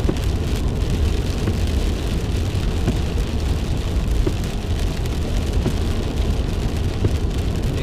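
Steady road and engine noise inside a moving car's cabin: a strong low rumble with an even hiss above it.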